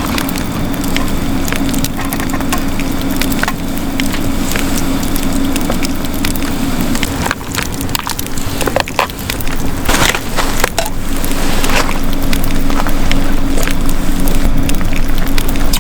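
Wood crackling and snapping in irregular clicks, with a louder cluster of cracks about ten seconds in, over a steady low hum.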